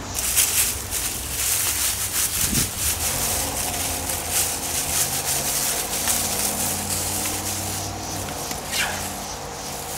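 Hands digging and rustling through loose potting soil in a container while harvesting potatoes, with irregular scraping and crumbling sounds. A low engine hum runs underneath.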